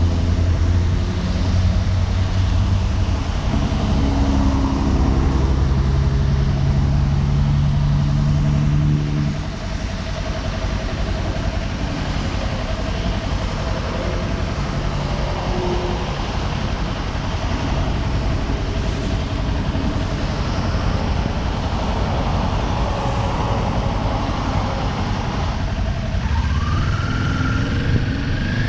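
Kawasaki Ninja 400's parallel-twin engine running at a steady speed under a loud rush of wind and road noise. About nine seconds in, the engine note drops away as the throttle is closed and the bike coasts on wind and tyre noise. Near the end the revs rise again as it accelerates.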